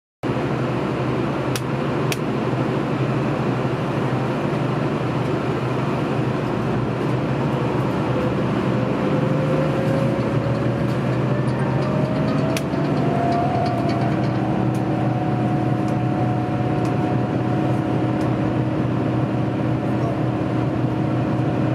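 Train interior noise as the diesel train moves off. The engine runs with a steady low hum, and a whine rises in pitch about halfway through as the train picks up speed, then holds steady. A few light clicks are heard.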